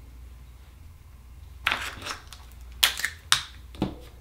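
Hard clicks and cracks of Akoya oyster shells and opening tools being handled, about five sharp knocks in the second half, with room quiet before them.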